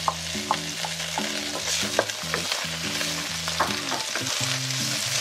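Strips of pressed dried tofu sizzling in hot oil in a nonstick frying pan, stirred with a wooden spatula that knocks against the pan now and then.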